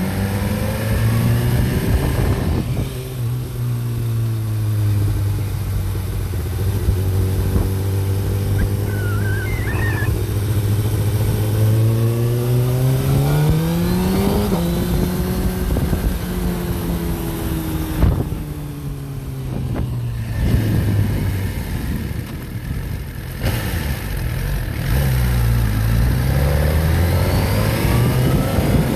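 Motorcycle engine running at cruising speed with wind and road noise. Its pitch holds steady, rises as it accelerates about halfway through, then settles again.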